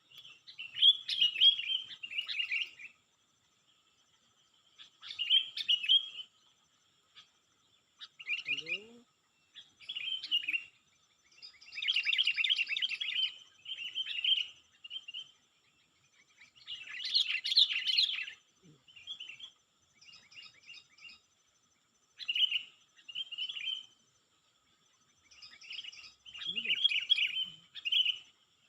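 A bird singing in short bursts of rapid, high chirping notes, each burst a second or two long, with brief pauses between them.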